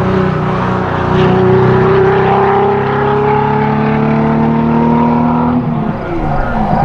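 Performance car engine under hard acceleration: an upshift about a second in, revs climbing steadily, then pitch falling sharply about five and a half seconds in as it lifts off or passes, before rising again at the end.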